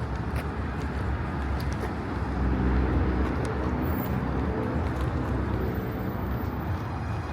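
City street traffic noise: a steady low rumble of cars on the road, with one vehicle's engine a little more present through the middle.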